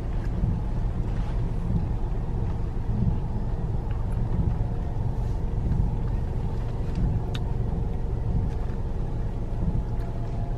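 Steady low rumble of a car's engine and road noise, heard from inside the cabin as the car moves slowly.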